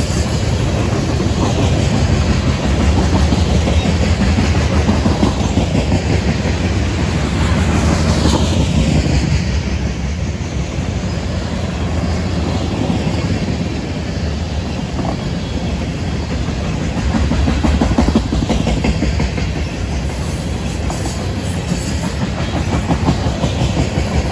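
CSX freight train's cars rolling past, steel wheels clicking over the rail joints over a steady heavy rumble.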